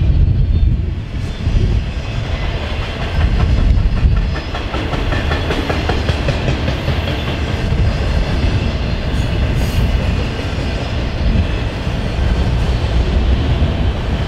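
Autorack freight cars rolling past on the track: a steady rumble of steel wheels on rail with a clickety-clack as the wheels cross the rail joints.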